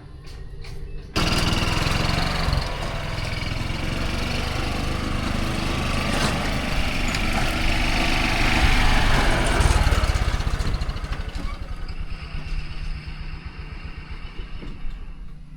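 Engine-driven machine running hard, with a dense rumbling noise that jumps much louder about a second in and eases off over the last few seconds.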